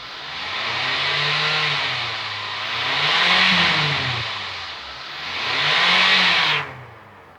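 Toyota 2AZ-FE 2.4-litre four-cylinder engine revved three times, the pitch rising and falling with each blip. The sound cuts off sharply near the end.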